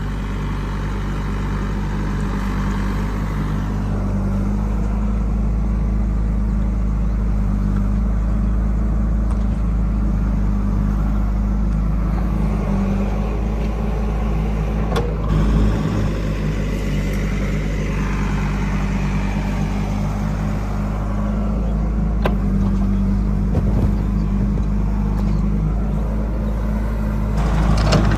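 Heavy diesel engine running steadily with a low, even drone, and a few short knocks, one about halfway through and another near the end.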